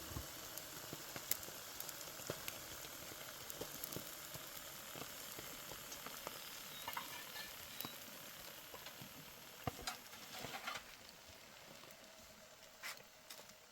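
Faint steady sizzling with scattered crackles and sharp clicks throughout, a few louder ones standing out.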